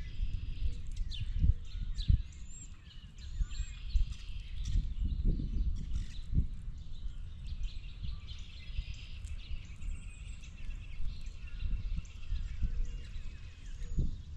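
Several wild birds chirping and calling over one another, many short notes and quick glides. Underneath, a louder uneven low rumble with scattered dull knocks close to the microphone.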